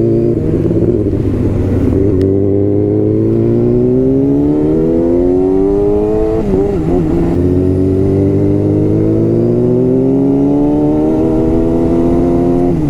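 Sportbike engine pulling steadily under acceleration, its pitch rising slowly. It shifts up about six and a half seconds in and climbs again, with another upshift near the end.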